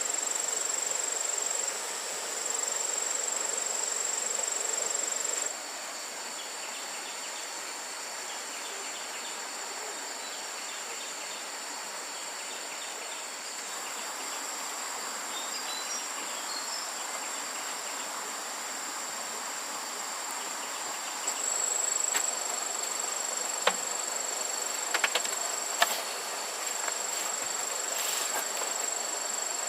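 Steady high-pitched insect chorus, with a constant shrill drone running throughout. A few sharp clicks or knocks come near the end.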